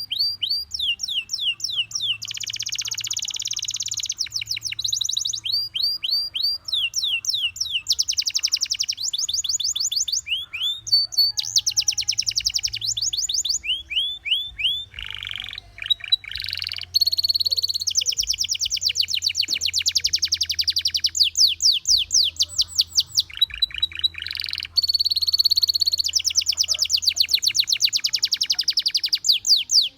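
Gloster canary singing: long trills of fast repeated high notes and quick sweeping notes, broken by short pauses.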